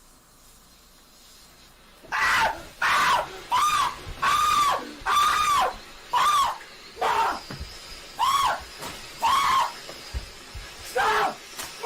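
A young man screaming over and over, starting about two seconds in: around ten short yells, each rising and falling in pitch, about one a second.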